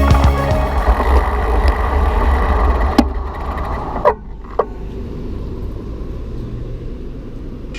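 Ride sound from a bicycle-mounted action camera: wind rush and road noise with traffic, heaviest in the first second and quieter after about four seconds, with a few sharp knocks around three and four seconds in. The audio is sped up.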